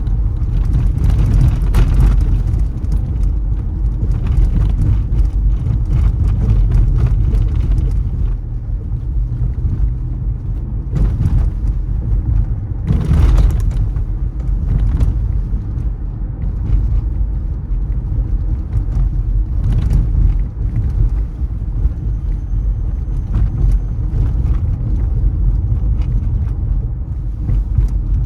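Car driving along city streets: a steady low rumble of engine and road noise, with a brief louder rush about 13 seconds in.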